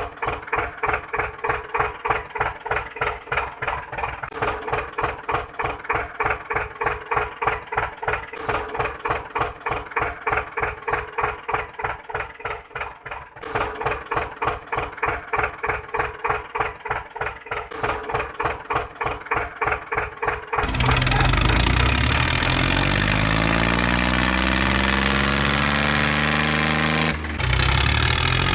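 Engine of a homemade small tractor chugging steadily at a slow even beat, about three or four pulses a second. About twenty seconds in it changes abruptly to a louder continuous engine sound whose pitch rises and falls.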